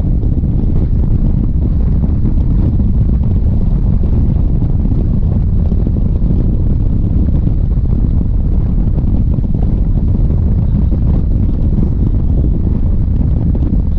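Loud, steady wind buffeting the microphone over a running Harley-Davidson motorcycle, with no change throughout.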